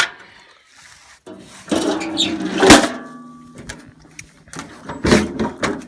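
Oil dipstick on a Cub Cadet 147 garden tractor being slid back into its tube: a metallic scrape with a faint ringing tone, ending in a sharp click about three seconds in. A few knocks follow near the end.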